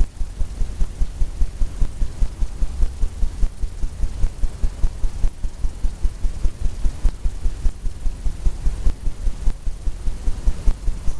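Paintbrush tapping oil paint onto a stretched canvas, a steady run of dull low thumps, several a second.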